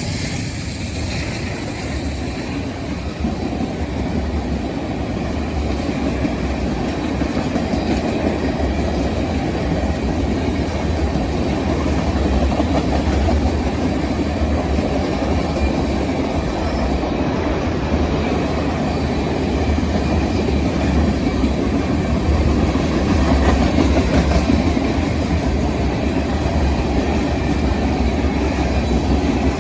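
Train rolling past at track side: a steady rumble with wheels clacking over the rail joints.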